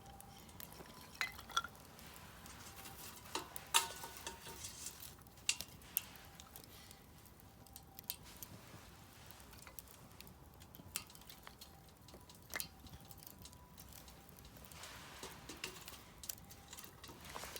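Firewood burning in a Solo Stove Campfire fire pit, crackling with irregular sharp pops and ticks, a few louder than the rest, over a faint steady hiss.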